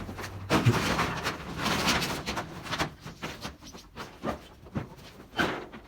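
Corrugated metal roofing being pulled apart and handled. About the first two seconds are a dense clattering and scraping, followed by a series of separate sharp clanks and knocks.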